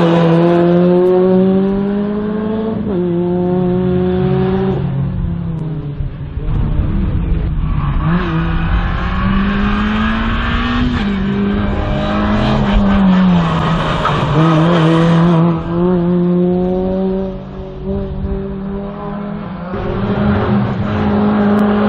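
A race car's engine on a slalom run, revving hard. Its pitch climbs, drops at gear changes and lifts off, then climbs again, over and over as the car accelerates and brakes between the cones.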